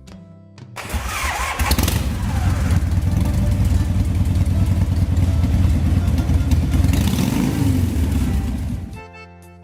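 A motor-vehicle engine starts about a second in, runs loudly with a low rumble and rapid pulsing, and stops near the end, with music resuming.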